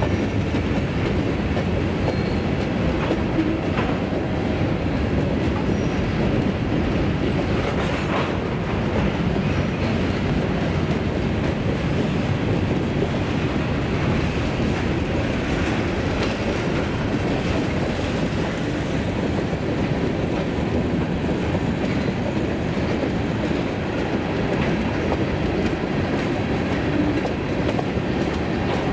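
Freight cars (covered hoppers and tank cars) rolling past, a steady rumble of steel wheels on rail with scattered clicks from the wheels and couplers.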